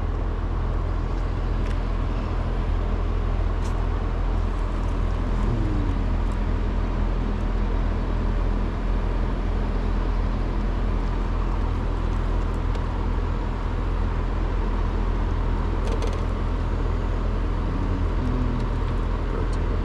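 Steady low electrical and mechanical hum of a running air-conditioner outdoor unit, with a few faint ticks.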